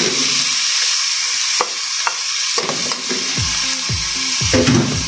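Sliced mushrooms sizzling as they hit hot oil in a metal pot. A couple of knocks come in the first half, then a spoon stirs them with repeated strokes about every half second from about halfway through.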